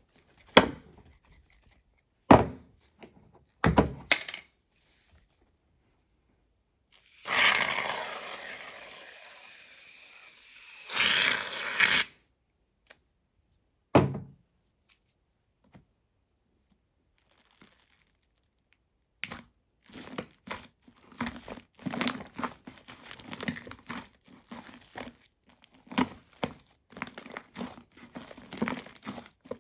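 A few sharp knocks, then a long hiss of aerosol shaving foam sprayed from the can that tails off, and a second shorter spray. Later, slime squished and worked by hand with quick wet crackling pops.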